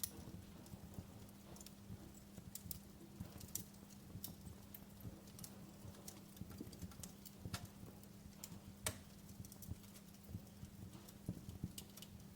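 Wood fire crackling in a fireplace: irregular sharp pops and snaps, with one louder pop about nine seconds in, over a soft low rumble and a steady low hum.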